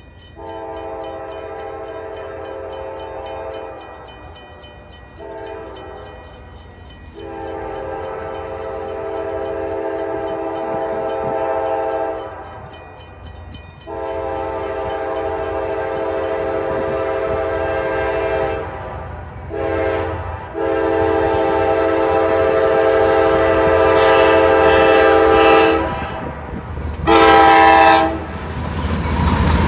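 Diesel freight locomotive's air horn sounding a series of long and short blasts, several tones at once, growing louder as the train approaches. The low rumble of the train rises under the last blasts.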